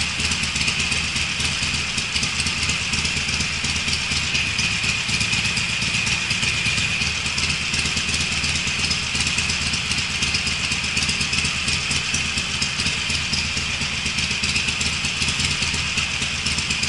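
Harley-Davidson Sportster's air-cooled V-twin idling steadily through aftermarket Screamin' Eagle mufflers.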